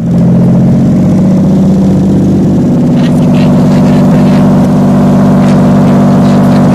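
LJ79 car engine idling steadily, recorded close up, with an even low running note and a few faint light clicks around the middle.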